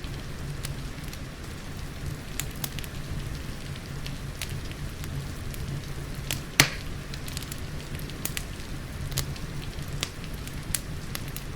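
Wood fire crackling, with scattered sharp pops and one loud snap about six and a half seconds in, over a steady bed of rain and a low rumble of fire.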